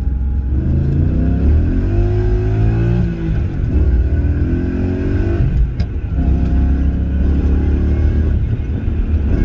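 M60 V8 in a BMW E23 accelerating through the gears of its six-speed manual, heard from inside the cabin: the engine note climbs, breaks for a gearchange about three seconds in, pulls again, and breaks for another shift near six seconds before settling into a steady pull.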